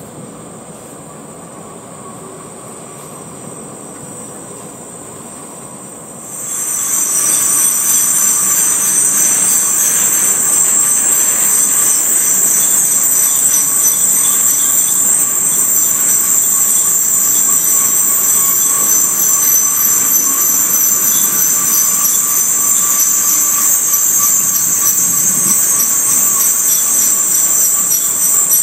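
A rail train of rack flatcars loaded with rail rolls slowly past with a quiet rumble. About six seconds in, a loud, steady, high-pitched steel-on-steel squeal takes over and holds.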